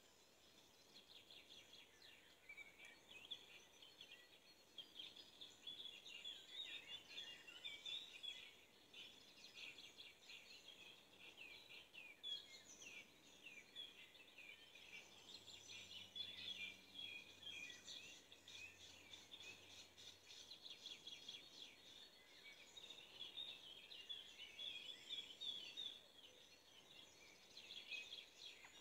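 Faint birds chirping and twittering, many quick high calls overlapping without a break.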